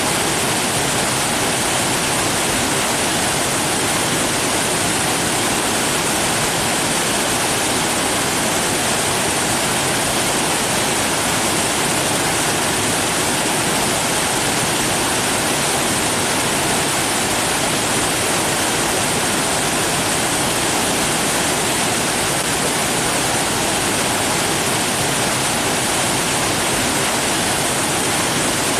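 Steady rushing water, like a waterfall or fast stream, an even hiss-and-roar with no breaks or changes.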